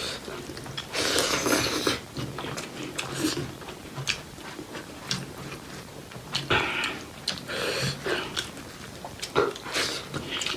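Close-miked eating of pork leg curry with rice: wet chewing and lip smacks with many small mouth clicks, broken by a few louder, longer wet sucking or slurping sounds.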